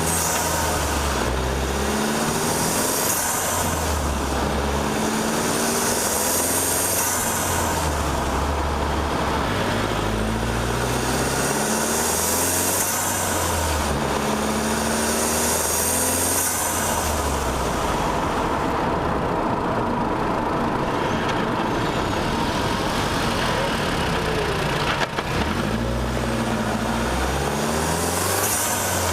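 Unmodified 2016 Volkswagen Golf R's 2.0-litre turbocharged four-cylinder, heard from a mic on the bonnet, pulling up through the revs under full throttle again and again. Each early gear change brings a burst of turbo hiss as the built-up boost is let go.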